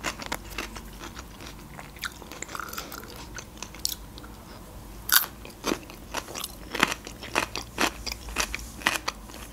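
Close-up crunchy bites and chewing of a fresh cucumber stick topped with cream cheese: a series of short, crisp crunches, the loudest about five seconds in.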